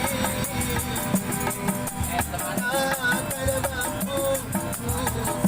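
Street buskers' music: a shaker rattles a steady fast beat under a melody line.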